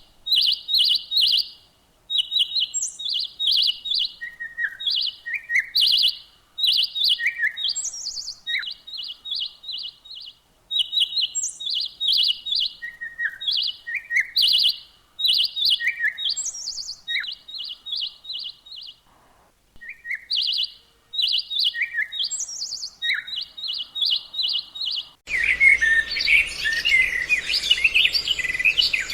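Recorded bird calls played as a trapping lure: short, rapid chattering phrases repeated again and again with brief pauses, some ending in a falling note. About 25 seconds in it cuts to a different recording of dense, overlapping twittering with a background hiss.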